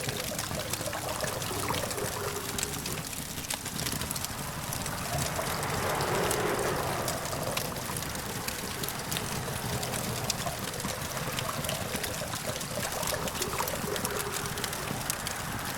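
Campfire crackling with scattered small pops over a steady hum of distant traffic, the traffic noise swelling briefly in the middle.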